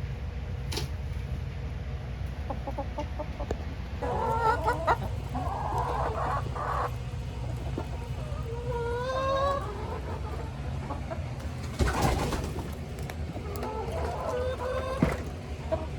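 Laying hens clucking, with short wavering calls starting about four seconds in and recurring, over a steady low rumble. A brief burst of noise about twelve seconds in.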